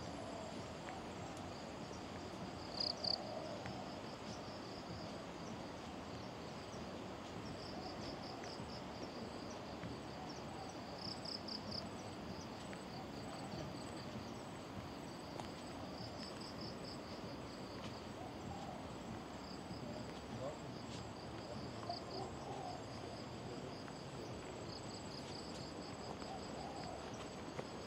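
Insects chirping in high-pitched pulsed trills that come in repeated bursts every few seconds, the loudest about three seconds in, over a steady background hiss.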